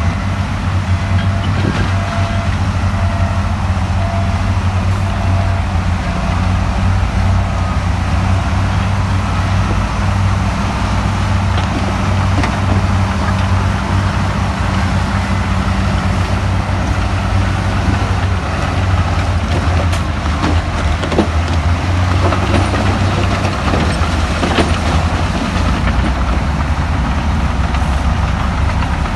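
Heavy earthmoving machine's diesel engine running steadily with a deep drone, with occasional faint clanks and knocks.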